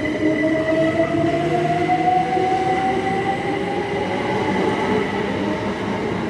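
Electric train pulling away, its traction motors giving a whine that rises slowly in pitch as it gains speed over the rumble of the wheels.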